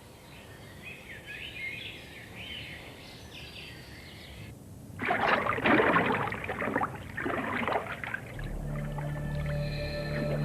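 Birds singing for the first few seconds, then a loud rushing noise in two surges about halfway through, followed near the end by a low sustained musical drone.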